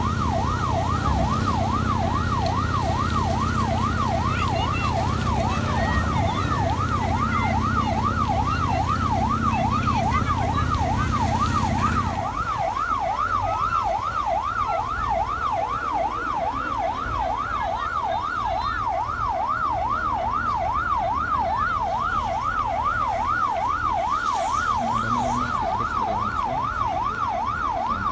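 Emergency vehicle siren sweeping rapidly up and down, about twice a second, with a low engine rumble underneath that drops away about twelve seconds in.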